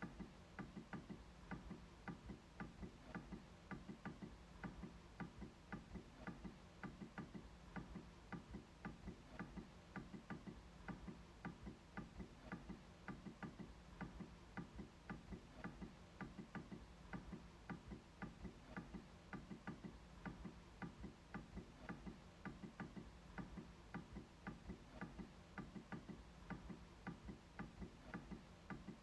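MacBook trackpad being clicked over and over: soft, quick clicks at an even pace, about two to three a second.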